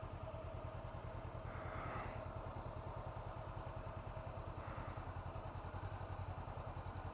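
2017 Honda CB500F's parallel-twin engine idling steadily, an even low pulse that holds without revving.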